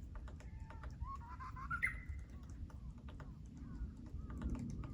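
Woodpecker tapping at wood in irregular, sharp pecks, with a short rising bird call a second or so in and fainter calls near the end.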